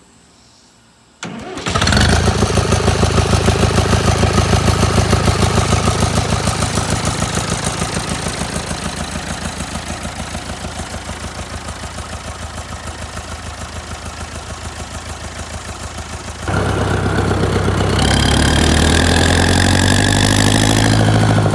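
1964 International B-414 tractor's four-cylinder diesel engine cranks briefly about a second in, catches, and runs with an even, rapid beat that settles slightly quieter at idle. Near the end it is throttled up: louder, with the pitch rising.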